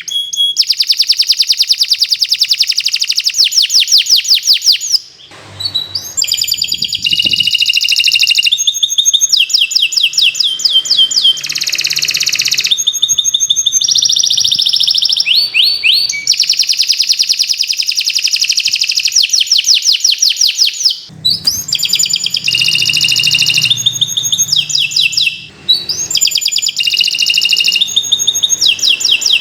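Domestic canary singing a long, continuous song of fast rolling trills, switching from one repeated phrase to the next, with brief pauses about five, twenty-one and twenty-five seconds in.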